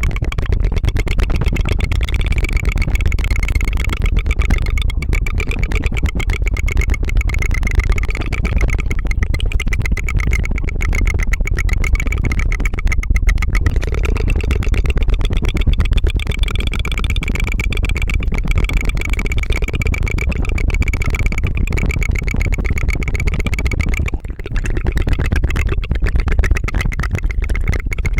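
Continuous rapid tongue trill (tongue fluttering) right at the microphone, a fast buzzing pulse like a helicopter's 'tu-tu-tu', with a short break about 24 seconds in.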